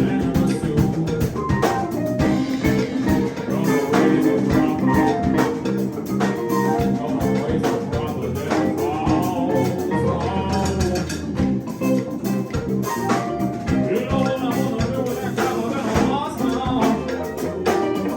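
Live band playing, with a drum kit keeping a steady beat under guitar.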